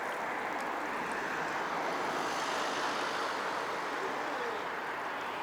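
Steady distant city traffic noise, an even hiss and rumble with no single event standing out.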